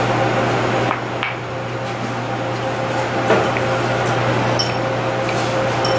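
Chewing of a gyoza over a steady background hum and hiss, with a few light clicks of metal chopsticks against a ceramic bowl.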